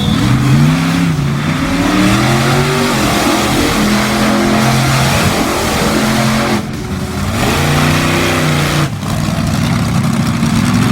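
Monster truck engine revving hard, its pitch climbing and falling again and again, with a couple of brief breaks in the sound.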